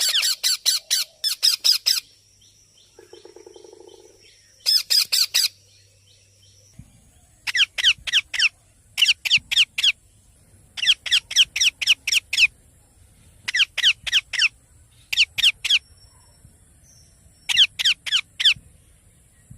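Baby parrot calling in repeated bursts of rapid, sharp, high-pitched squawks, each burst a quick run of notes, coming every second or two.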